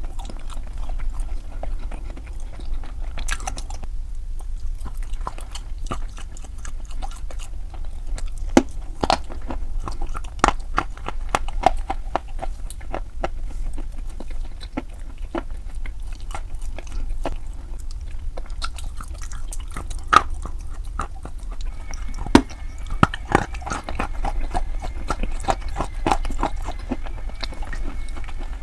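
A person biting and chewing crunchy chalk: an irregular string of sharp crunches, over a steady low hum.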